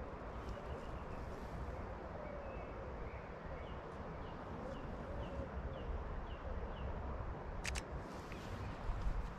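Outdoor ambience with a low rumble of wind on the microphone and a bird repeating a short chirp about twice a second in the middle. A quick double click sounds near the end.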